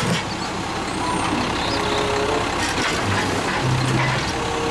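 Automated side-loader garbage truck running while its hydraulic arm lifts a wheeled garbage cart to the hopper, with brief whining tones over the steady engine noise.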